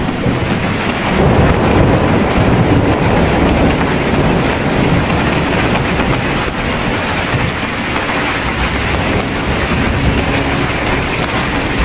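Heavy rain pouring down steadily, with a deep low rumble underneath from about a second in.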